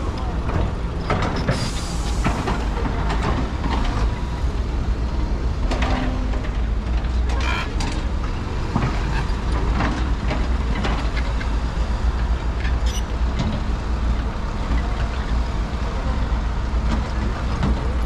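Steady low rumble of heavy trucks and construction machinery, with scattered short knocks and clacks.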